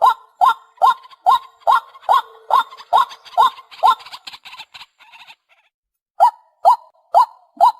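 White-breasted waterhen calling a monotonous, evenly repeated 'kwak', about two calls a second. The calls fade away about four seconds in, stop for about a second, then start again.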